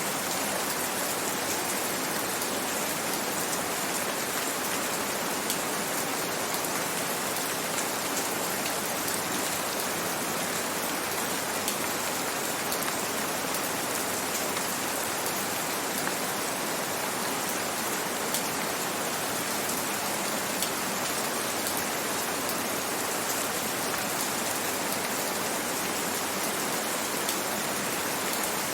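Steady rain falling, an even hiss with scattered pattering drops.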